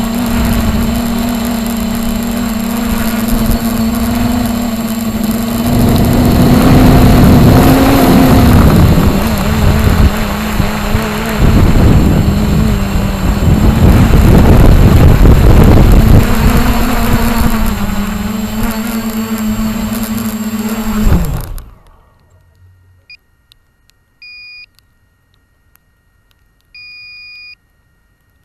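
Radio-controlled helicopter's rotor and motor running with a steady hum that wavers and briefly rises in pitch as it is flown, with wind rushing on the microphone. It cuts off suddenly a little over twenty seconds in, followed by a few short electronic beeps.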